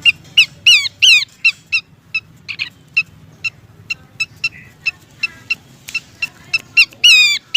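Pelanduk semak babbler calling: a rapid run of short, sharp notes, about two or three a second, broken by louder falling whistled notes near the start and again near the end. Used as a lure call, a female calling to a male.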